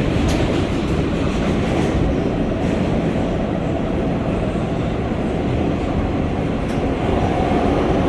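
NYC Subway R143 car running through the tunnel, heard from inside the car: a steady rumble of wheels on the rails.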